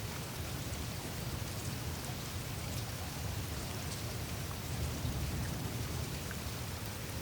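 Melting surface of the Greenland ice sheet: a steady hiss of meltwater trickling through the ice, scattered with small ticks and drips, over a low rumble.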